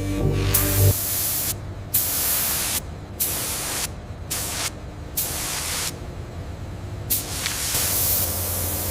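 Spray gun hissing in repeated bursts, stopping and starting about six times with short gaps between, as a protective coating is sprayed on.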